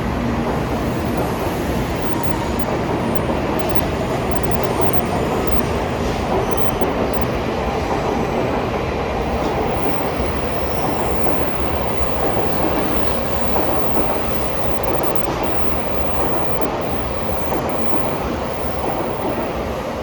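Shinkansen train running alongside a station platform, a steady, loud rushing rumble that eases slightly near the end.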